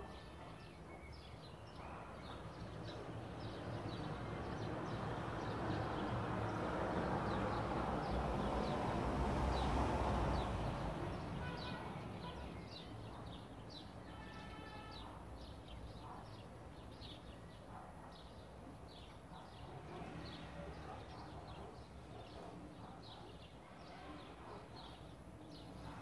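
Small birds chirping over and over in short, high notes. A broad rushing noise swells for about ten seconds and then fades, and it is the loudest thing heard.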